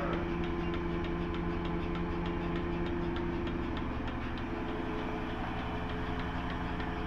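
A machine runs steadily with a low hum and a fast, even pulsing beat.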